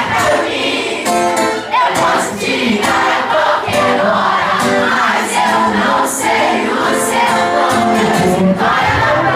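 Live band music with a lead vocal, the crowd singing along.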